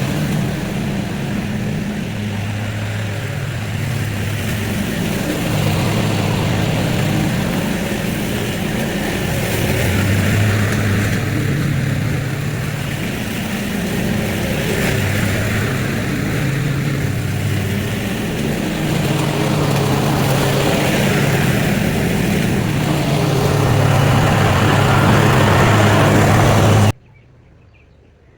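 A small gasoline engine of yard power equipment runs steadily under load, its drone rising and falling slightly, then stops abruptly near the end.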